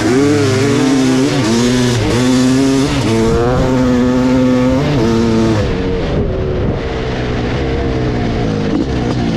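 1986 Kawasaki KX500's single-cylinder two-stroke engine, through an FMF exhaust, revving in repeated blips that rise and fall in pitch. About six seconds in, the revs drop lower and the sound turns duller.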